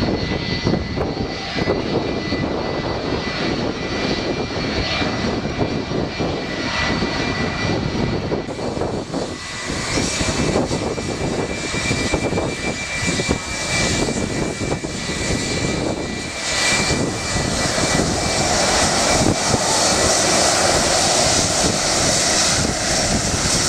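Aircraft engine running, growing louder and brighter about two-thirds of the way through.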